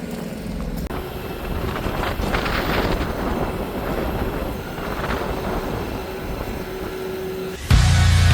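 An old Taylor forklift's engine running with a rough, steady mechanical noise, with a brief hum near the end as the mast is worked. Loud heavy-rock music cuts in suddenly near the end.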